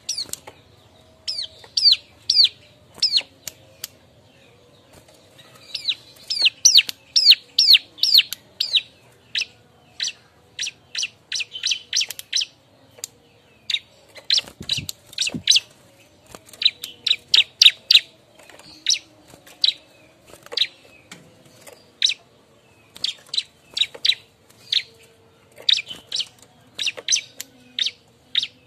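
Bar-winged prinia (ciblek) calling noisily, the call of a bird seeking companions: runs of sharp, high, downward-sweeping chip notes, several a second, broken by short pauses.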